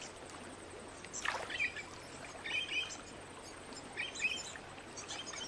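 Wild birds chirping in four short bursts, each a second or more apart, over a faint steady hiss.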